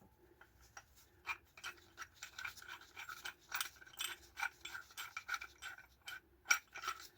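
Faint, irregular metallic clicks and scrapes, several a second, as a brake caliper piston tool is fitted and worked against the caliper piston.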